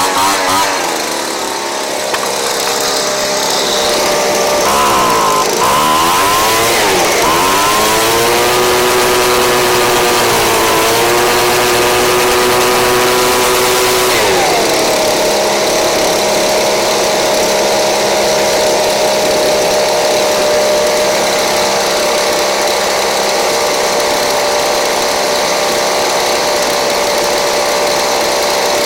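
Craftsman 29cc two-stroke handheld leaf blower engine running, its speed wandering up and down as the carburettor is tuned; about halfway through it rises to a higher speed and holds steady.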